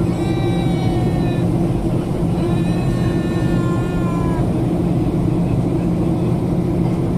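Steady loud drone of a Boeing airliner's engines and airflow, heard inside the passenger cabin on the landing approach. Twice in the first half, a high drawn-out call with a slightly falling pitch rises over the drone.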